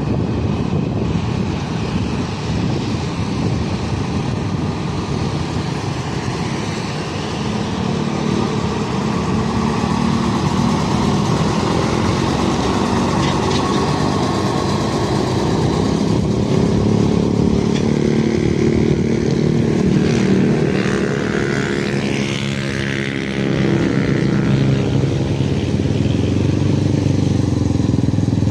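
Road traffic with a heavy trailer truck's engine running, steady and loud, with engine notes sliding in pitch about two thirds of the way through and growing a little louder near the end.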